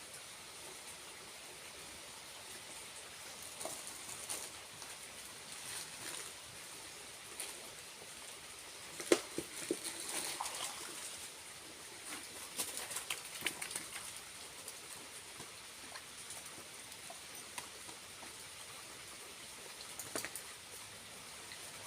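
Steady hiss of a small waterfall's falling water, with scattered rustles and light taps over it, the sharpest a single tap about nine seconds in.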